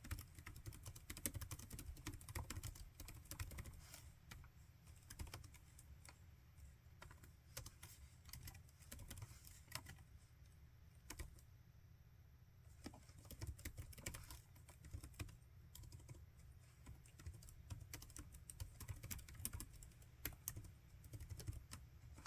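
Laptop keyboard being typed on: quick, uneven runs of soft key clicks, with a brief lull in the middle, over a faint steady low hum.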